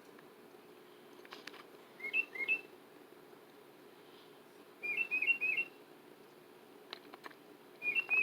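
Tufted titmouse whistling short, quick notes in three bursts of two to four notes each, about 2 s in, about 5 s in and near the end. A few faint clicks come between the bursts.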